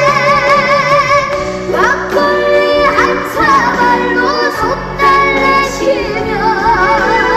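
A young girl singing a trot song over musical accompaniment, holding notes with a wide vibrato.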